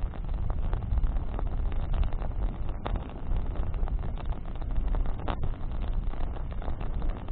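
Campfire of branches burning: a steady low rumble under a dense run of small crackles, with sharper pops about three and five seconds in.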